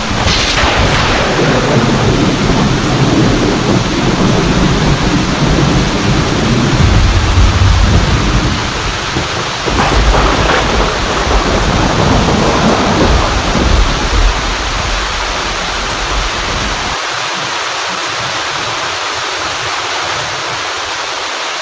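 Steady heavy rain with thunder rumbling low several times. The rumble dies away about three quarters of the way through, leaving only the hiss of the rain.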